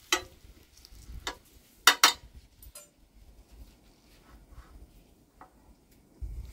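A few sharp metal clinks of cooking tongs and a pan, the loudest two close together about two seconds in.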